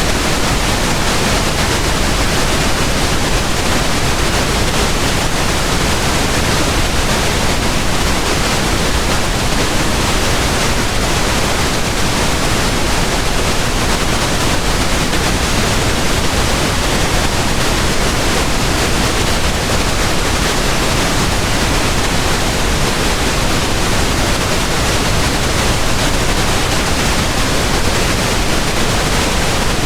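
Steady pink noise: an even, unbroken hiss spread across the whole range, unchanging throughout.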